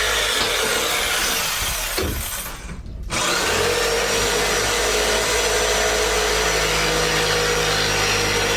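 Electric jigsaw cutting through a wood panel, running steadily, pausing briefly about two seconds in and starting again a second later.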